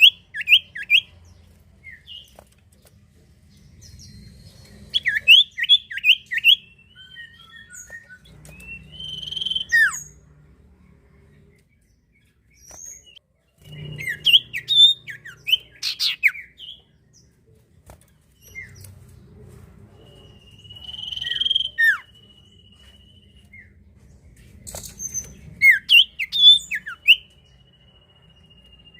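Common iora (sirtu, cipoh) singing in bursts of quick high chirps, some sweeping downward, with pauses between phrases. Twice the song turns into a long, steady, high whistled note.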